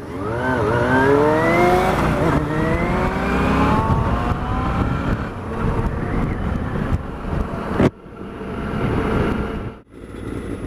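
Motorcycle engine accelerating hard, its pitch rising in two or three sweeps through the gears over the first few seconds. It then settles into a steady cruise under rushing wind noise, and the sound cuts out briefly twice near the end.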